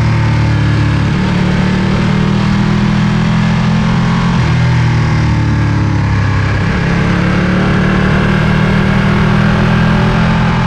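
Ducati Panigale V2's 955 cc V-twin engine running steadily while riding, its note shifting slightly in pitch about halfway through and then settling again.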